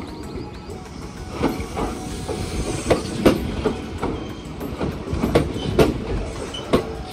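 Kintetsu electric commuter train passing close by, its wheels clacking over the rail joints. The clacks start about a second in and come often in quick pairs, over a steady rolling rumble.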